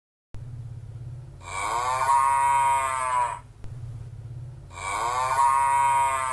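A cow mooing twice, each call about two seconds long and rising then falling in pitch, over a steady low hum.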